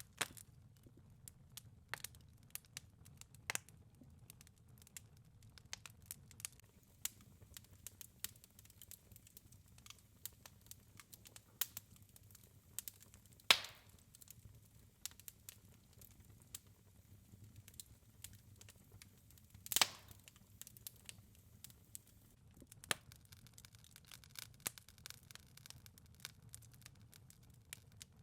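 Wood fire burning in a fireplace: steady crackling, a scatter of small snaps over a faint low rumble of flame, with two loud pops about halfway through and again some six seconds later.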